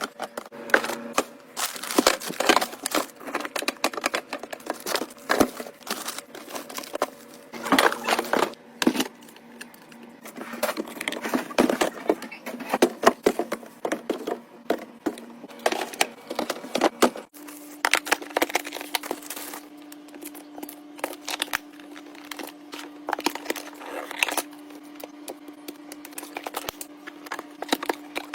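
Fridge being restocked by hand: containers, cans and bottles set down on shelves and into bins in a quick run of clicks, knocks and clatter, with plastic packaging crinkling. A steady low hum runs underneath and shifts to a slightly higher tone about two-thirds of the way through.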